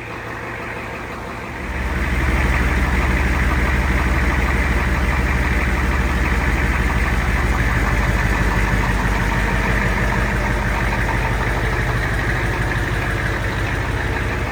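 A 7.3-litre IDI turbo diesel in a 1973 Ford F-250 Highboy idling steadily, warming up after a cold start. It gets clearly louder about two seconds in, then holds an even rumble.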